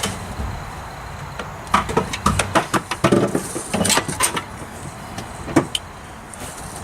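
Handling noise: a quick run of clicks, knocks and rustles for about three seconds, then one more knock, as tools are picked up and moved about.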